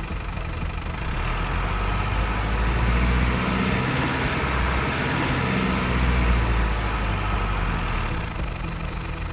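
Remote-control model dump truck running, a low engine-like hum that swells in the middle and eases off near the end.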